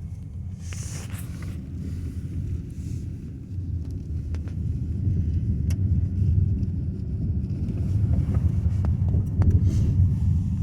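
Steady low rumble of a car driving, heard from inside the cabin: road and engine noise, getting a little louder about halfway through, with a few faint clicks.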